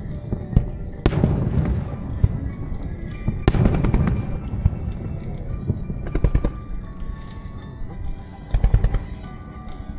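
Aerial fireworks bursting: two loud bangs, about a second in and again about three and a half seconds in, each followed by a rumble, then quick runs of crackling pops around the middle and near the end.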